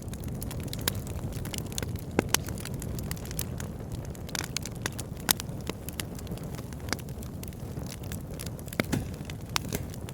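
Fire burning in a fireplace: many irregular sharp crackles and pops over a steady low rumble.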